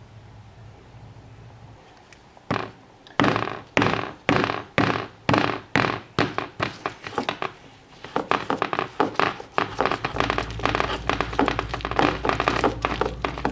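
Repeated thunks from kitchen prep work: spaced about two a second at first, then quickening to a fast run from about eight seconds in.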